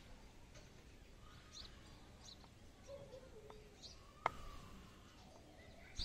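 Quiet room tone with a few faint bird chirps in the background and a single sharp click a little past four seconds in.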